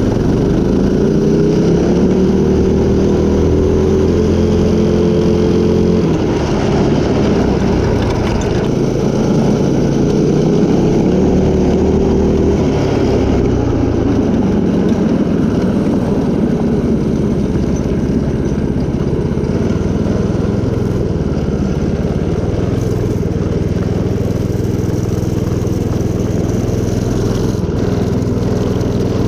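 Small gas engine of a stretched mini bike running on a test ride. It revs up over the first couple of seconds, holds, and drops off sharply about six seconds in, then rises and falls a few more times with the throttle before settling at a lower, steadier speed.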